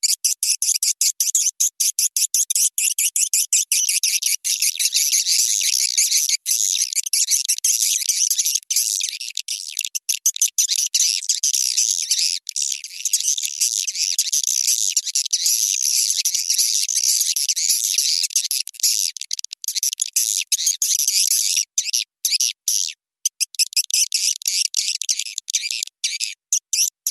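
Swiftlet lure-call recording: dense, high-pitched twittering of swiftlets, choppy and stuttering at first, running almost unbroken through the middle, then breaking into quick on-off bursts near the end.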